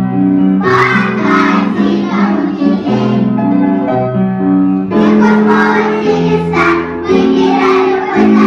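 A group of young children singing a Russian folk song together with a piano or keyboard accompaniment.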